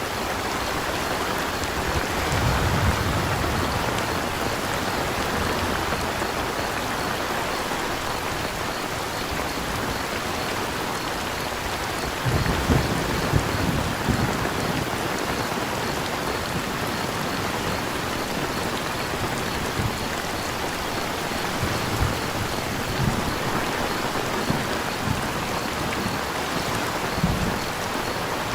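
Steady rain falling, with a faint, evenly repeating chirp of crickets behind it. A couple of low rumbles swell up, one about two seconds in and one around twelve seconds, and a few soft low knocks follow near the end.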